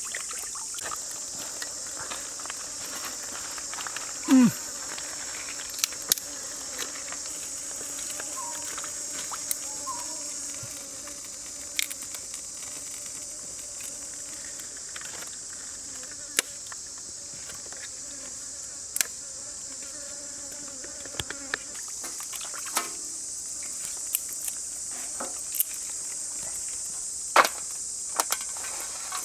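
Steady high-pitched drone of insects calling, with sharp clicks and knocks now and then. There is a short, loud falling tone about four seconds in.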